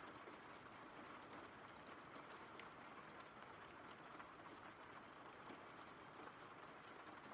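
Faint steady rain ambience, with scattered sharper drop sounds.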